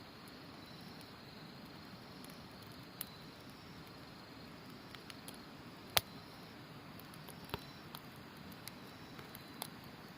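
Wood campfire crackling, with scattered sharp pops, the loudest about six seconds in, over the steady rush of a river and a faint high trill of autumn insects.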